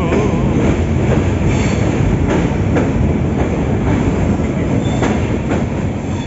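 Passenger train running along the track with a steady loud rumble, its wheels clacking over rail joints now and then.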